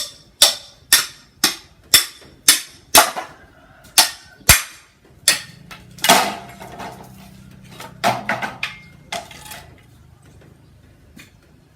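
Steady run of sharp, hard blows, about two a second, stopping about four and a half seconds in. Three or four scattered blows follow.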